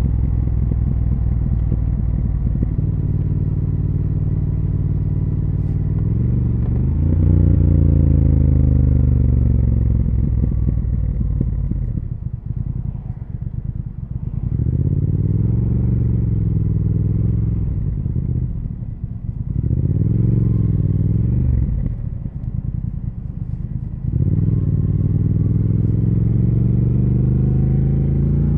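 Triumph Speed Twin 1200's 1200 cc parallel-twin engine and exhaust under way, its pitch rising and falling as the throttle is rolled on and off. It pulls steadily at first, climbs about seven seconds in, swells and drops back three times through the middle, and climbs steadily again near the end.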